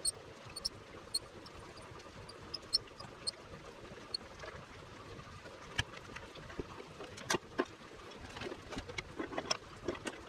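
Light clicks and knocks of small parts and tools being handled on a workbench, with a few small metallic clinks in the first few seconds and busier handling near the end.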